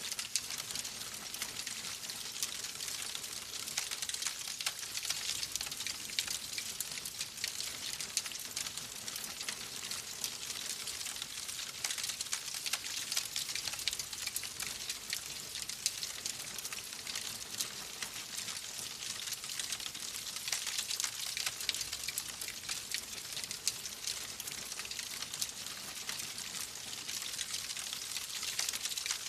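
Wood fire crackling in a fireplace: a steady hiss of burning wood sprinkled with many small, quick pops and snaps.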